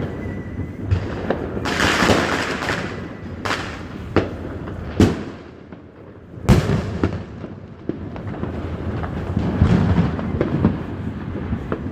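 Fireworks going off: a string of sharp bangs, the loudest about three and a half, five and six and a half seconds in, between stretches of crackling.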